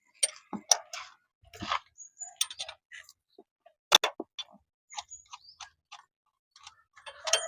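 Irregular light clicks and taps of tools and parts being handled, with one sharper click about four seconds in.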